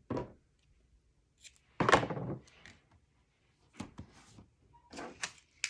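Paper and craft pieces being handled on a work table: a knock at the start, a louder rustle of paper about two seconds in, then a few light clicks and taps.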